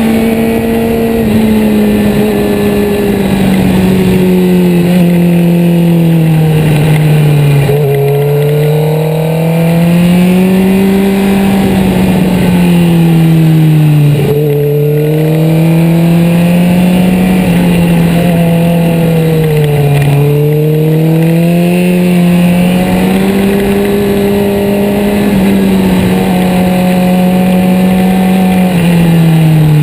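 2011 Suzuki GSX-R600's inline-four engine under way, its note climbing and dropping again and again as the throttle is rolled off into each bend and opened out of it, over a steady rush of wind.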